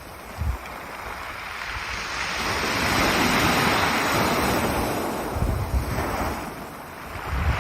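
Ocean waves breaking and washing over a beach of pebbles: one wave surges up, hisses and draws back, and the next begins near the end. Wind on the microphone adds a few low thumps.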